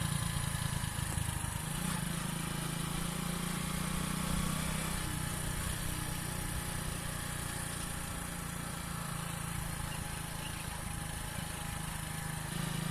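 Hero Splendor motorcycle's single-cylinder four-stroke engine running steadily at an even pitch.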